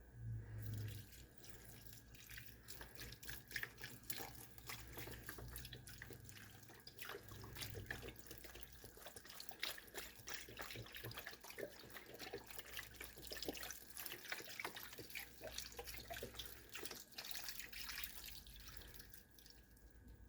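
Chicken broth being poured from a 32-ounce container into a crock pot of chopped chicken and vegetables, a faint, irregular glugging and splashing of liquid throughout.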